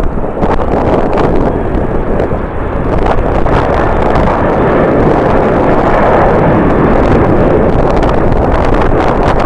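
Strong wind buffeting the camera microphone: a loud, continuous rumble with short gusty knocks, slightly heavier in the second half.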